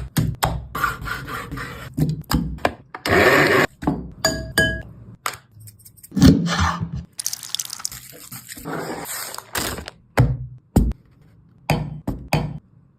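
Kitchen handling sounds: a run of sharp knocks and clatters, with longer stretches of hiss about three seconds in and again around seven to nine seconds in.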